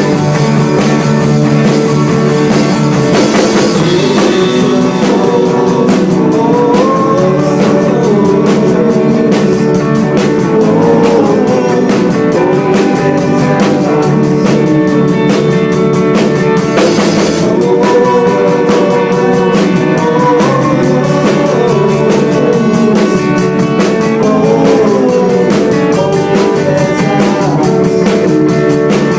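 Rock music with electric guitar and drums, played at a steady loud level.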